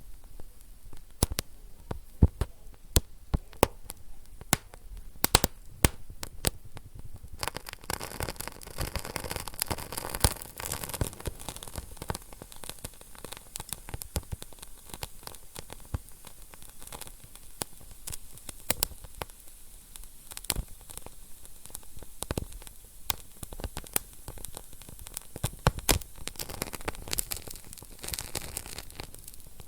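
Wood fire burning in a fireplace, crackling and popping in sharp, irregular snaps over a soft hiss, with a busier patch of crackle a few seconds in.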